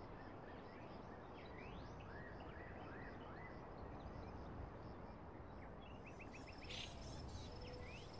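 Faint outdoor ambience: small birds chirping, short rising calls repeated every half second or so, with a quick run of notes near the end, over a steady low background noise.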